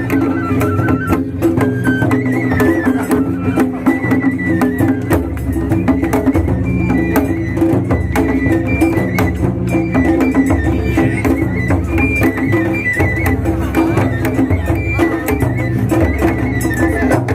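Traditional Japanese festival music: a high melody that steps from note to note over low drums and rapid clicking percussion.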